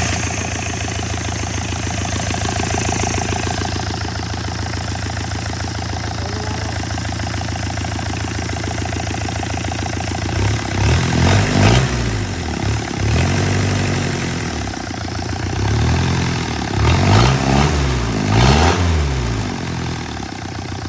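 Isuzu C240 four-cylinder diesel engine idling steadily, then revved up and down several times in the second half before dropping back to idle.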